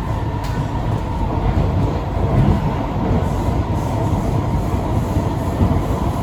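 C151B metro train running, heard from inside the carriage: a low rumble of wheels on the track with a steady whine.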